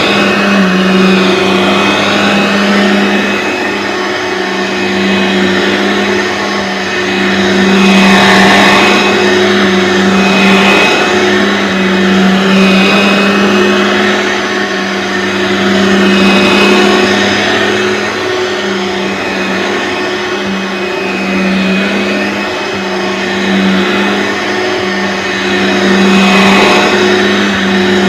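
Aeros upright vacuum cleaner's motor running steadily with a constant hum, its loudness swelling and fading every few seconds.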